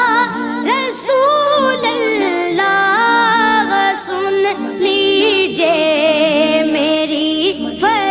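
Background music: a high voice singing an Urdu devotional song (naat), its melody wavering and ornamented over accompaniment.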